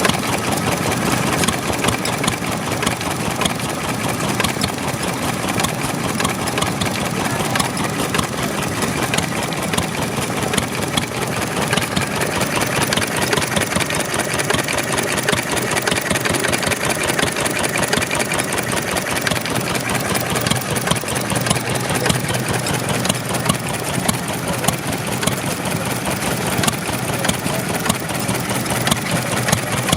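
Ceres Type M1A stationary engine running steadily, its exhaust and valve gear making a fast, even run of beats.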